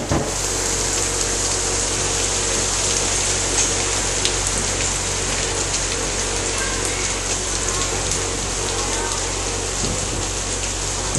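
Heavy tropical rain shower falling steadily: a dense hiss scattered with sharp taps of individual drops. A steady low hum runs underneath.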